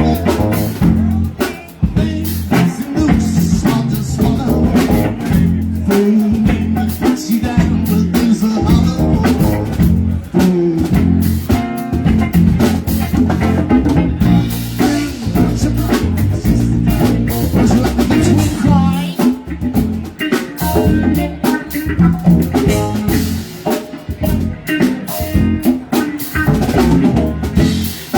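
Live rock band playing, with drum kit, bass and guitar.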